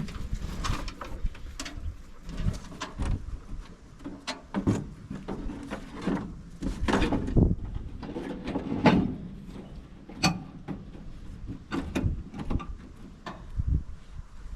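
Irregular clanks, knocks and scrapes of metal parts and hand tools being handled during shop work, with a couple of louder sharp knocks about seven and nine seconds in.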